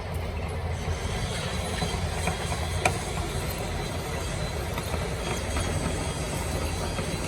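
Steady running of workshop machinery with a low hum, and a few faint clicks, one about three seconds in.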